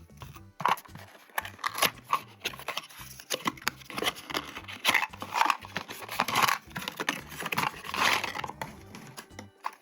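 Toy packaging being unboxed by hand: plastic and cardboard crinkling and tearing, with many sharp clicks and rustles, loudest in a few longer tearing rustles in the middle.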